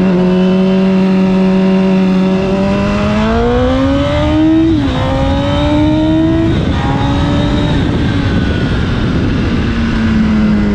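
Honda CBR1000's inline-four engine under way. It holds a steady pitch, then accelerates hard through two upshifts, the pitch climbing and dropping back at each shift, before settling and slowly easing off.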